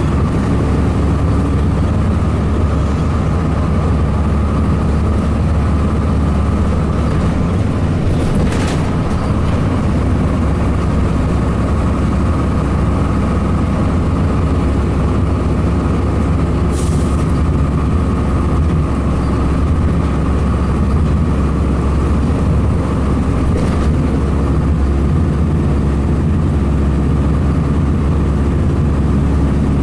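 A 2002 Blue Bird CS transit bus's Cummins ISC inline-six diesel running steadily under way, with a deep, even drone. A brief high hiss sounds about halfway through.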